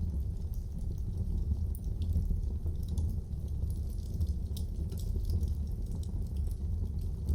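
Fire burning in a fireplace: a steady low rumble of flames with small, irregular crackles and pops throughout.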